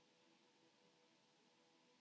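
Near silence: a faint steady hiss with a few very faint held tones.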